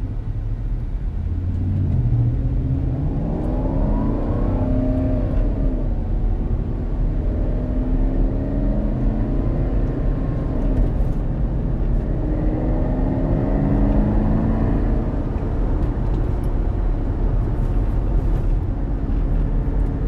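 Porsche Cayenne's engine accelerating hard, its pitch climbing through three rising pulls, each dropping back at a gear shift.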